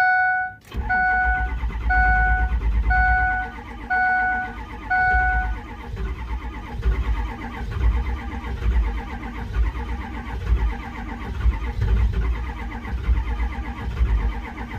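Starter cranking a cold Ford 6.0 Power Stroke V8 diesel in a steady pulsing churn that does not catch: with no working glow plugs it will not fire, despite hot air blown into the intake. A dashboard warning chime beeps about six times, once a second, over the first several seconds.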